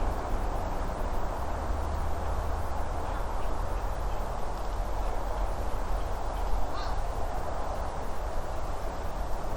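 Wild birds calling in the yard over a steady outdoor hiss and low wind rumble, with one short, sharper call about seven seconds in.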